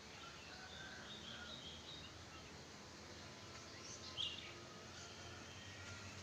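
Wild birds chirping and calling faintly over a steady background hush, with one louder call about four seconds in.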